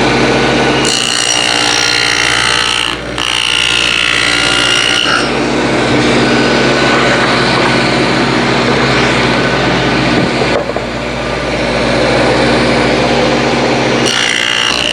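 Table saw running with a dado blade, cutting a rabbet into Masonite-skinned plywood. The motor tone is steady throughout. The louder cutting noise comes in about a second in, drops away after about five seconds as the blade spins free, and returns near the end with the next pass.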